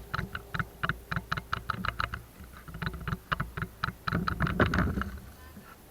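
Quick, even strokes of something being rubbed or scrubbed by hand to clean off dirt, about five a second, in three short runs with brief pauses between.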